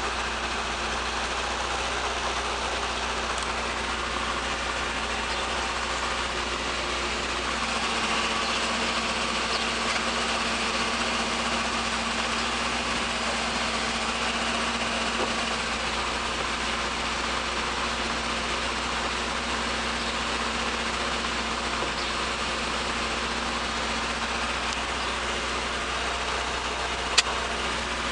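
1973 Opel GT's four-cylinder engine idling steadily after a cold start. A single sharp click sounds near the end.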